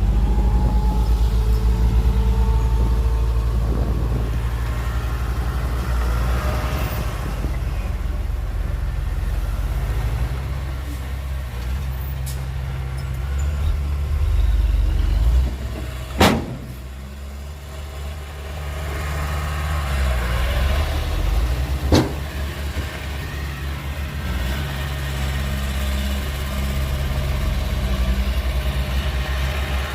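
Heavy diesel earthmoving machinery running, a low engine drone that rises and falls in level, with two sharp knocks about halfway through and again some six seconds later.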